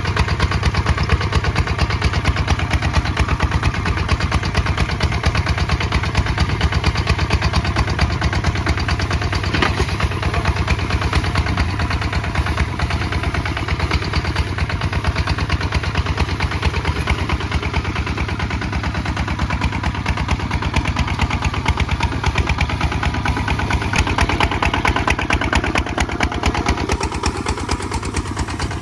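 Kubota ZT 155 DI single-cylinder diesel engine running steadily while plowing, its rapid even firing beat unbroken throughout.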